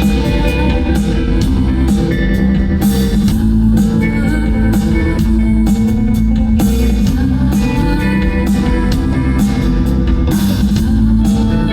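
Live band playing an instrumental passage of an indie-pop song, with guitar and drum kit.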